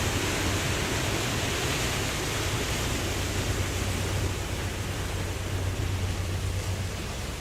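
Ocean waves washing in a steady rush with a low rumble, slowly growing fainter.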